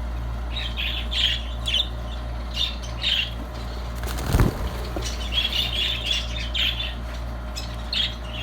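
Budgerigars chattering with repeated short, high squawks and chirps, with a brief sharp rustle or knock about four and a half seconds in, over a steady low hum.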